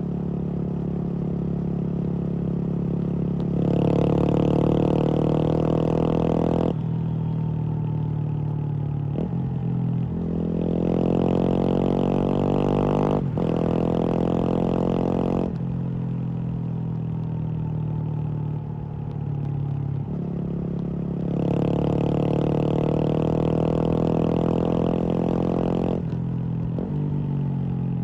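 Kawasaki KLX230's air-cooled single-cylinder engine running through a Norifumi aftermarket full-system exhaust. It idles and is revved up three times, each held for a few seconds before it falls back to idle.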